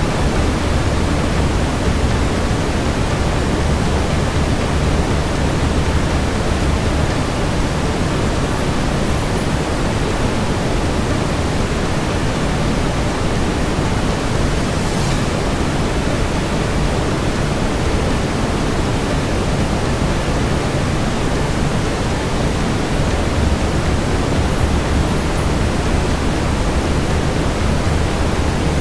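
Steady brown noise, a deep even rush, with a faint crackle of a wood fire about halfway through.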